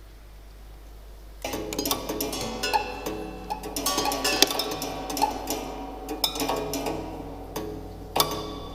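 A gutted piano played by solenoids and small mechanical devices: irregular clicks and taps mixed with ringing string notes, starting about a second and a half in.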